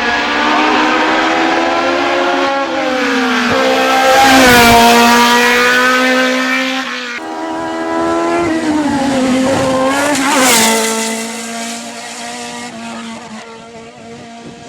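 Race car engine at high revs going up through the gears, its pitch climbing and dropping back at each shift. It is loudest about four seconds in and again near ten seconds, then fades away.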